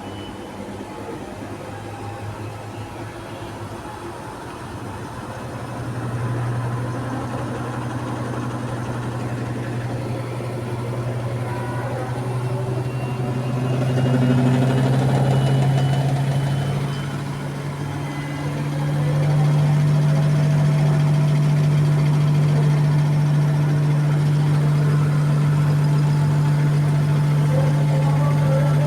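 Electrolux 15 kg commercial washing machine spinning up on its final spin toward 1245 rpm: a steady motor hum that climbs in pitch and loudness in stages, settling louder about two-thirds of the way through. Faint high squeaking runs above it, the bad squeak this washer makes on final spin.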